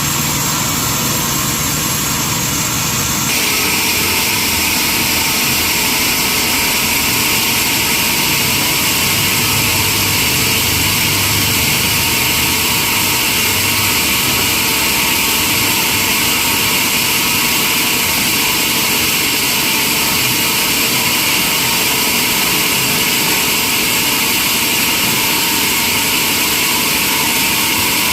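Sawmill saw running steadily through a mahogany log, a loud, even hiss. About three seconds in the sound shifts abruptly and gets slightly louder and brighter.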